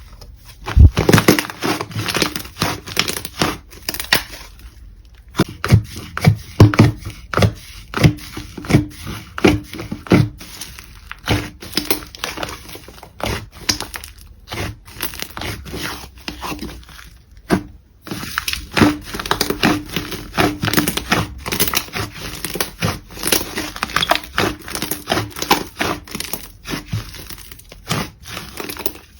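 Slime being pressed, poked and stretched by hand, making a dense run of small pops and clicks, with short lulls about five seconds in and again just past the middle.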